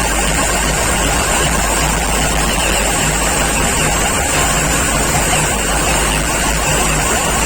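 Very loud music from large DJ sound-system rigs, heavy in the bass and overloading the recording into a dense, steady din.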